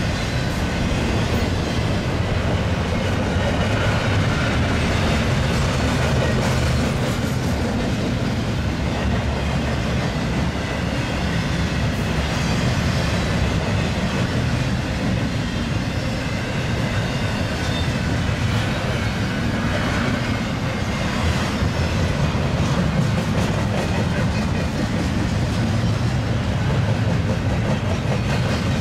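Long double-stack container freight train rolling past at speed, its steel wheels running steadily on the rails.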